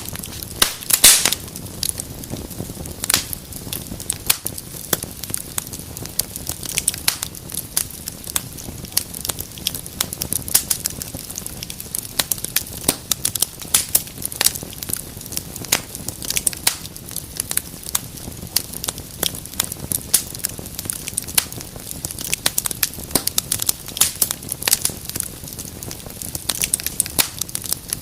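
Wood fire burning in a fireplace, crackling and popping steadily over a soft hiss, with a louder burst of pops about a second in.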